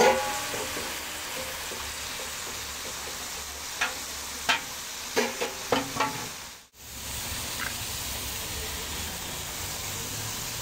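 Sliced ampalaya (bitter melon) sizzling steadily as it is stir-fried in a pan, with a spatula clicking and scraping against the pan several times around the middle. The sound cuts out for a moment shortly after.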